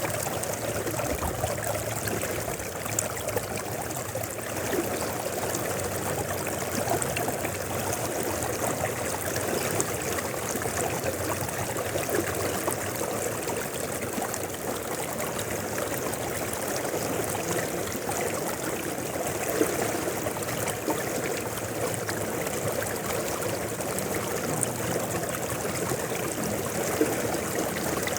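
River flowing steadily down from the mountains: a continuous, even rush of running water.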